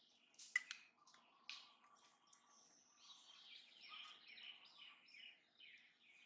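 Faint songbird calling a run of short, high, downward-sweeping notes in the middle, with a few sharp clicks near the start.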